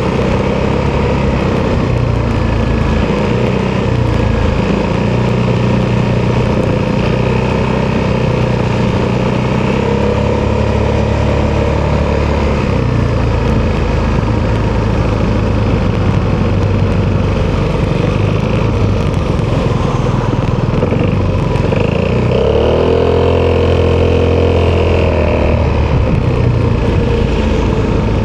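Italjet Dragster 200's single-cylinder four-stroke engine running through an Akrapovic exhaust while ridden, its pitch shifting with the throttle. Near the end it revs up sharply, holds for a few seconds, then falls back.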